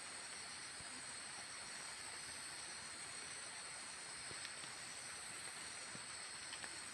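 Steady, quiet outdoor background hiss with a high, faintly pulsing drone above it and a few faint ticks.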